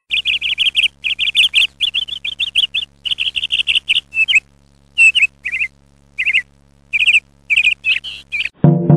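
Small songbird chirping in quick runs of short, high chirps, about five or six a second, broken by a few short pauses. It stops abruptly near the end as music comes in.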